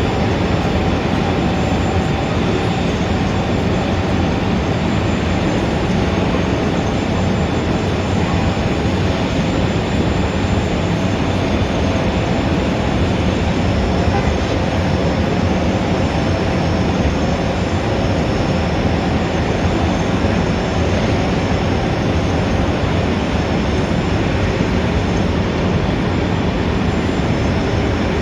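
Steady city traffic ambience: a continuous, even din of vehicles with no single event standing out.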